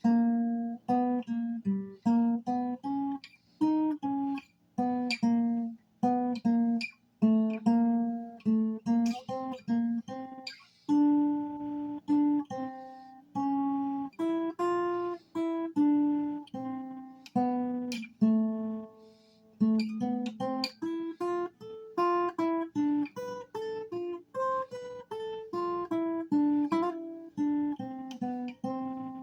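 Acoustic guitar being played: a steady run of picked single notes and some strummed chords, with short pauses twice along the way.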